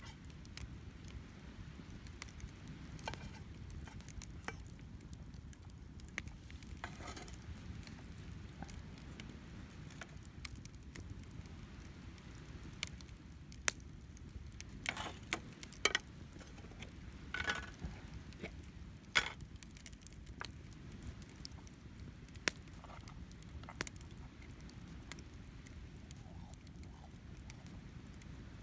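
Wood campfire crackling, with irregular sharp pops from the burning firewood, several coming in a cluster around the middle. Underneath is a low steady rumble of sea waves and wind.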